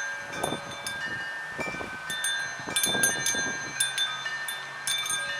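Several wind chimes ringing at irregular moments as the wind knocks them, their tones overlapping and hanging on. Gusts of wind rumble on the microphone about half a second in, near 2 s and around 3 s.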